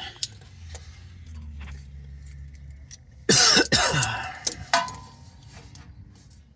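A man coughs hard about three seconds in, then once more briefly, with a few light metallic clicks of a wrench on the truck's stuck oil drain plug.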